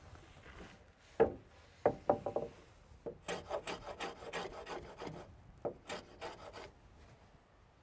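Hand tool working wood: a few sharp knocks, then quick, rhythmic scraping strokes of a rasp or file against the wood that stop near the end.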